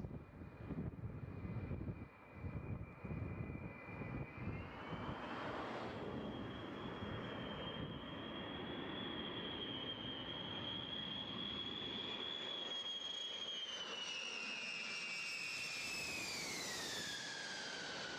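B-52 bomber's eight jet engines: a gusty low rumble at first, then a steady high whine that rises in pitch about five seconds in and falls in pitch near the end.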